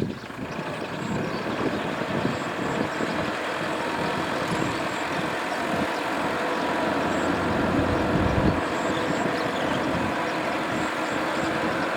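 Tractor engine running steadily under load while ploughing, swelling slightly louder about two-thirds of the way through.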